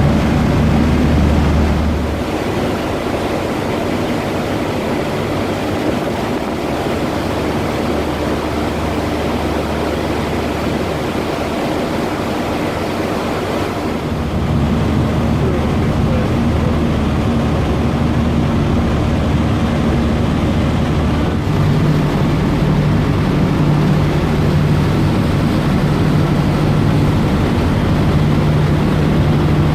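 Ferry's engines running under way, a steady low drone over the rush of water and wind. The engine note shifts a few times: it drops about two seconds in, comes back louder about halfway through, and changes pitch again about two-thirds of the way in.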